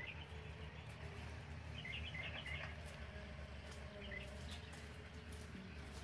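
Small birds chirping: a brief chirp at the start, a quick run of chirps around two seconds in, and another chirp about four seconds in, over a steady low rumble.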